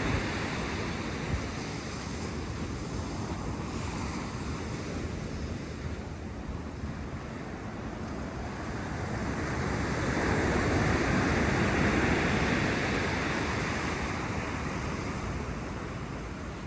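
Ocean surf breaking on the beach in a steady wash, one wave swelling to its loudest about two-thirds of the way through and then easing off, with some wind on the microphone.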